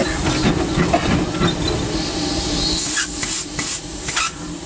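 Steam locomotive heard from inside its cab, running with a steady rumble and clatter, then about four short hisses of steam in quick succession a little past halfway.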